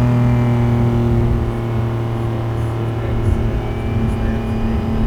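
Turbocharged Infiniti G37's 3.7-litre V6 and exhaust running at a steady engine speed, a constant drone with no rise or fall in pitch. A faint high whine comes in near the end.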